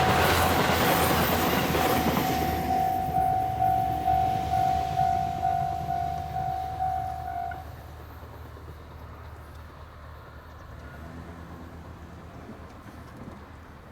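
HB-E300 series diesel-battery hybrid railcar set passing close by and moving away, loud for the first couple of seconds and then fading to a low rumble. A pulsing warning tone beats about twice a second over it and stops about seven and a half seconds in.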